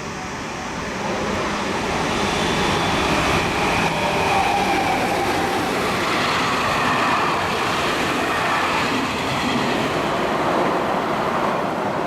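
Meitetsu electric train passing through the station at speed without stopping: a loud rush of wheel and rail noise that builds over the first couple of seconds and then holds, with faint whining tones running through it.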